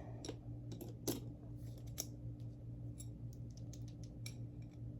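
Irregular small clicks and scrapes of a hand tool working a stuck brush-roll bearing loose from an upright vacuum's brush roll, with the sharpest clicks about a second and two seconds in.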